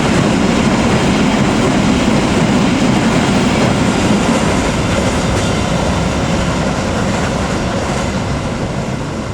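A train passing close by: a loud, steady rush and rumble of wheels on rail, slowly growing quieter over the last few seconds.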